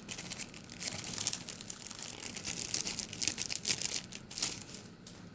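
Plastic sticker packaging being crinkled and pulled open by hand, a run of short crackles and rustles that die down near the end.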